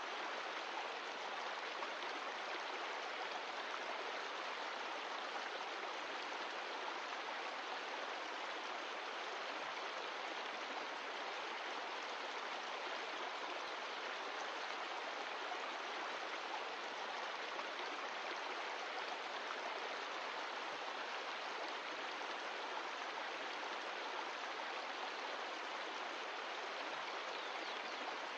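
Mountain stream of glacial meltwater rushing and splashing over rocks, a steady, even water noise.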